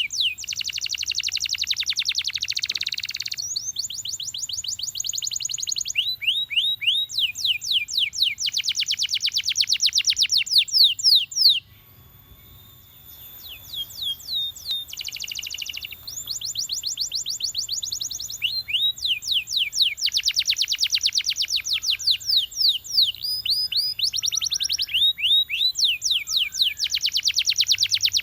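Canary singing: long trills of fast repeated high notes, in runs of a few seconds that change from one note type to the next, with a brief pause about twelve seconds in.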